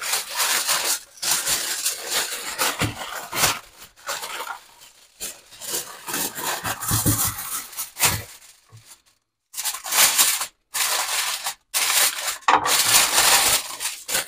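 Aluminium foil being wrapped and crumpled around sucuk, a double layer, in a run of crinkling rustles with short pauses.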